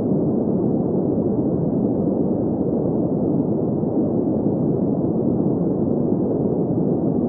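Steady green noise: an even, unchanging hiss centred in the low-middle range, with no highs above about 2 kHz.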